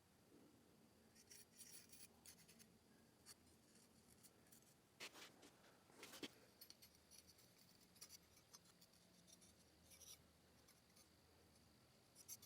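Near silence, with faint scratching and a few soft taps; two slightly louder taps come about five and six seconds in.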